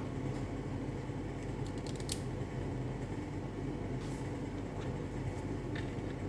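A few faint clicks of small 3D-printed plastic parts being handled and fitted, with one sharper click about two seconds in, over a steady low hum.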